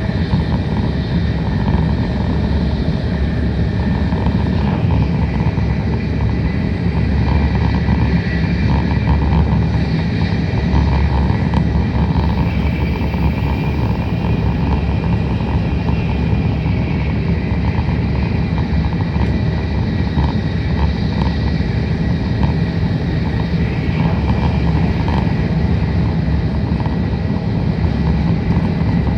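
Tokaido Shinkansen train running at speed, heard from inside the passenger car: a steady rumble of wheels and running noise.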